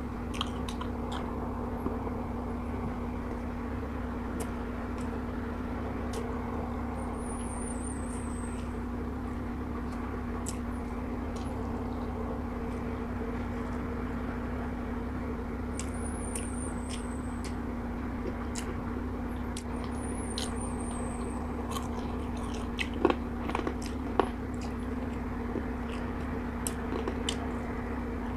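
Close-up eating sounds: chewing and small wet clicks as fried chicken wings and rice are eaten by hand, over a steady low hum. Two sharper clicks come about 23 and 24 seconds in, and a faint high chirp recurs every several seconds.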